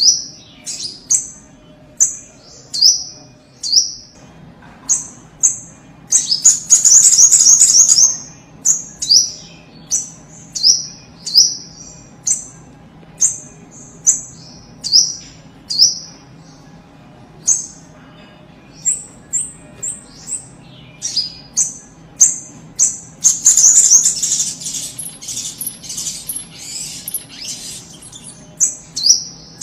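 Spiderhunter (sogok ontong) calling: a long series of sharp, high chips repeated about once or twice a second. There are two stretches of rapid, dense chattering, about six seconds in and again from about twenty-three seconds in.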